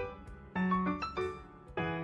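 Background piano music: a steady run of struck notes and chords, several to the second.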